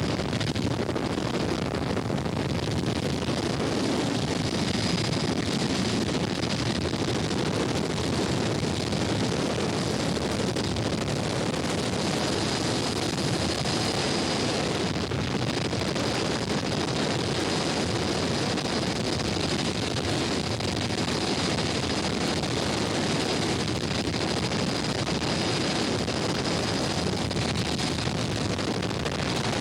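Steady road and engine noise of a car driving, with a faint steady high whine throughout.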